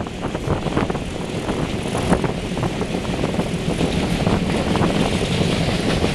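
Diesel locomotive hauling a passenger train over a girder bridge: a steady engine drone and the rumble of the coaches, with a few sharp clicks.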